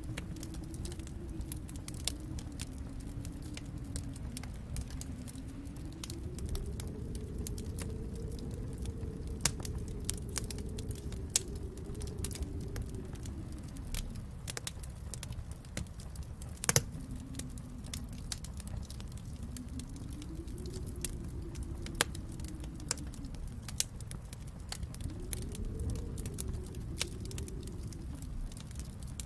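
Wood fire crackling in a fireplace: scattered sharp pops and snaps over a low rumble, with one louder pop a little past the middle. Under it runs a faint low tone that slowly rises and falls in pitch.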